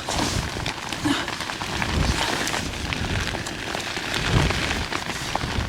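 Heavy rain falling in a steady hiss, with scattered sharp drop taps and low gusts of wind buffeting the microphone.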